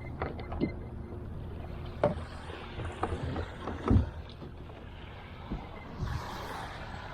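Scattered knocks and bumps on a kayak, about half a dozen spread over several seconds, over steady wind and water noise, with a brief wash of water near the end.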